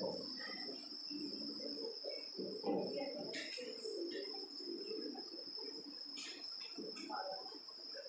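A steady, high-pitched insect trill over a low murmur of children's voices in a classroom.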